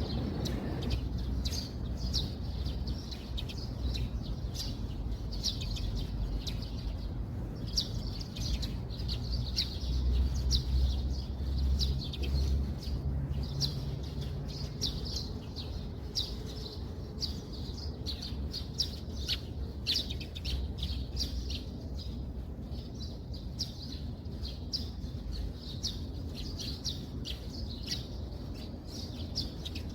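Small birds chirping over and over, many short high calls, over a steady low rumble that swells for a few seconds about ten seconds in.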